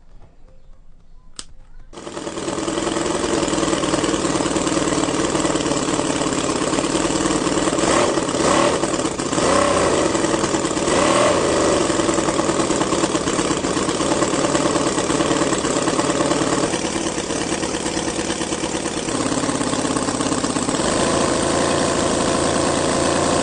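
A custom-built engine starts about two seconds in and keeps running, with a few brief revs and a couple of later shifts in its note.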